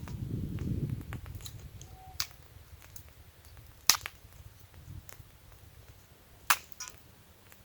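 Three sharp clicks or knocks a second or two apart, the middle and last ones loudest, with a few fainter ticks between, over a low rumble that fades within the first second.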